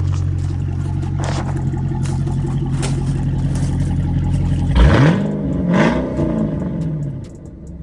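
A car engine idling steadily, then revved twice about five seconds in, the pitch rising and falling each time before it settles back down near the end.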